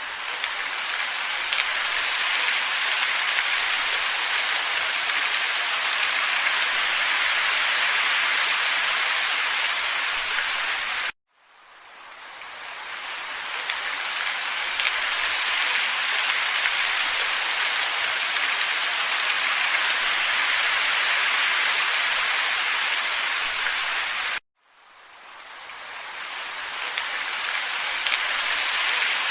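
Steady, even hiss of a looped nature ambience track, cut off abruptly twice, about 11 and 24 seconds in, and fading back in over a couple of seconds each time as the short loop restarts.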